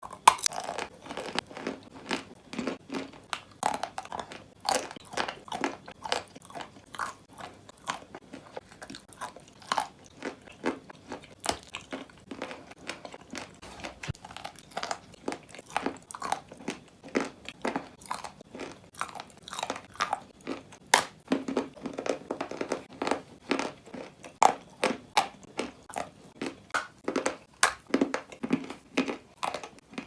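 A person biting and chewing chalk, with crisp crunches several times a second and no pauses.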